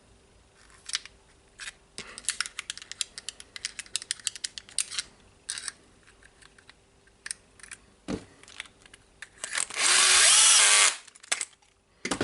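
Rapid small clicks and ticks of hand work on parts, then about ten seconds in a power screwdriver runs for about a second, driving a screw.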